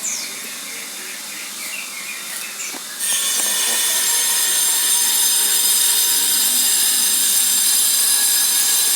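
A small bird chirping in short, quick notes. About three seconds in, a loud steady high hiss suddenly starts and covers it.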